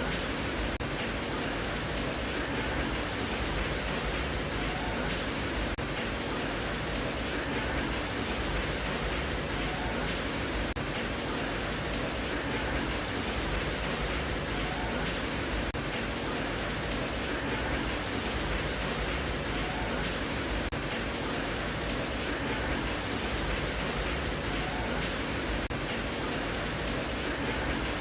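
Steady rain, an even unbroken hiss with no change in level.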